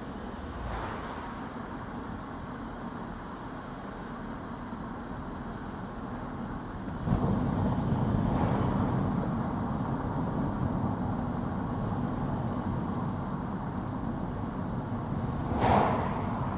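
A car driving along a road: steady tyre and engine noise that grows louder about seven seconds in, with a brief louder rush near the end.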